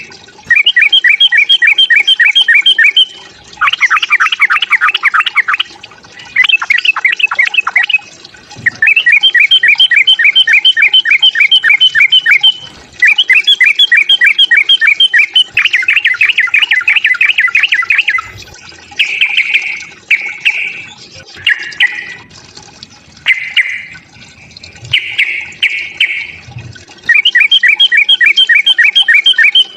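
Yellow-vented bulbul (trucukan) calling in rapid chattering runs of a few seconds each, with short breaks between them. These are the agitated 'fighting' calls used to provoke a rival bird.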